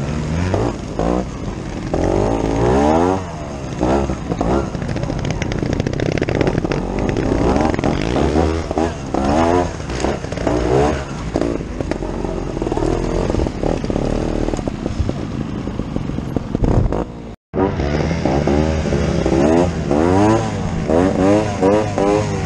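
Two-stroke Scorpa 250 trial motorcycle engine revving and blipping on the throttle as it climbs over rough ground, with other trial bikes running close by. The sound cuts out for a moment about seventeen seconds in.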